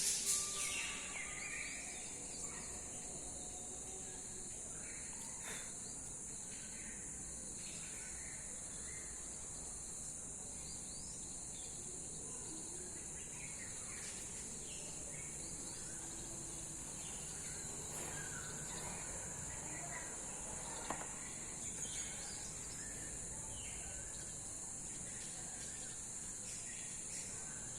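Steady high-pitched insect trill, typical of crickets, with scattered short bird chirps throughout and a brief louder burst right at the start.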